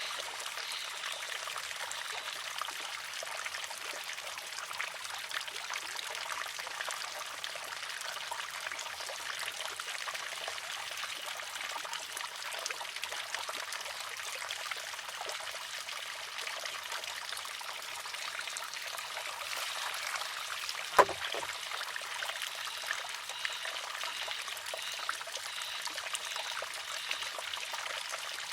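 Water trickling steadily into and through a wooden shishi-odoshi, and once, about three-quarters of the way through, the water-filled arm tips and strikes the rock with a single sharp wooden clack that rings briefly.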